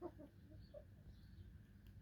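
Hens clucking softly: a few short, low clucks in the first second.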